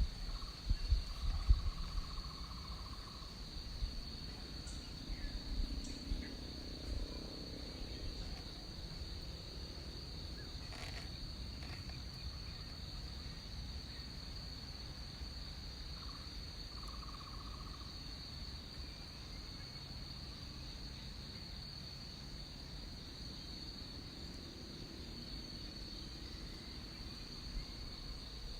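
Tropical rainforest insects keeping up one steady high-pitched drone. A lower, buzzing call sounds twice, about a second in and again around sixteen seconds. In the first few seconds there are low rumbling knocks.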